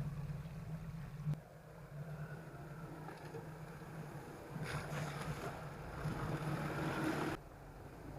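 An engine running steadily with a low hum, mixed with wind-like rushing noise that swells past the middle and cuts off suddenly near the end.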